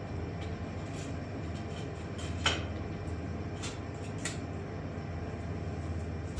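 Steady low background hum with a few light clicks and knocks, the sharpest about two and a half seconds in.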